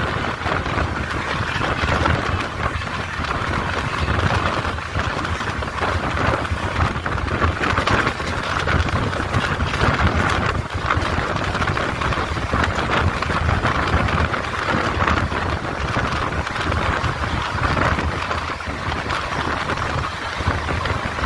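Train running: a steady, noisy rumble with no breaks.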